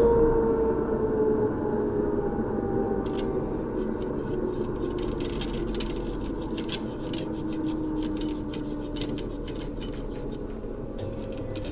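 A small electric motor running, its hum slowly sinking in pitch throughout, with light scratching and ticking over it.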